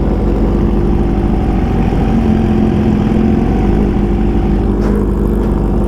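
Sport motorcycle engines running at a steady cruise, a constant drone with little change in pitch, under a rush of wind and road noise.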